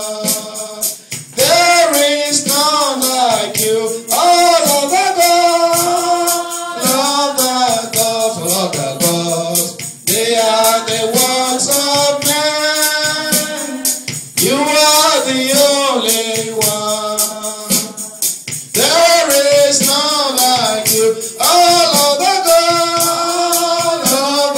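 Gospel chorus sung by a group of voices, with a tambourine beating time.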